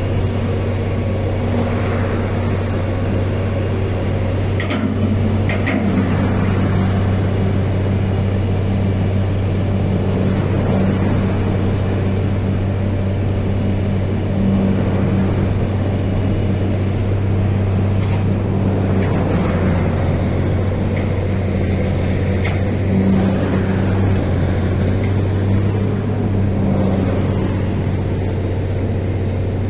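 A heavy engine running steadily with a low drone, amid road-traffic noise, with a few brief sharper sounds.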